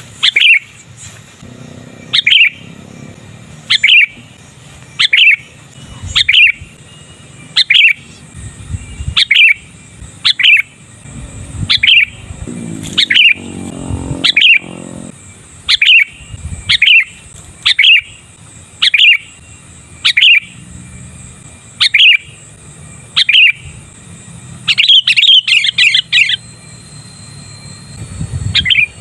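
Sooty-headed bulbul (kutilang) repeating one short, loud call note about once every second and a quarter, breaking into a quick burst of several notes near the end.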